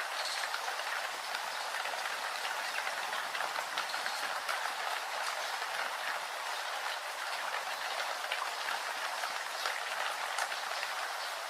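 Steady rain falling: an even hiss thick with small drop ticks.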